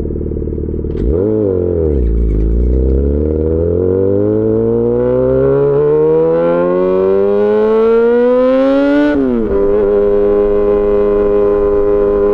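Yamaha XJ6 S inline-four motorcycle engine through an SC-Project aftermarket exhaust: a quick throttle blip about a second in, then a long steady pull with the revs rising for about seven seconds, a sudden drop in pitch at the gear change, and an even cruise after.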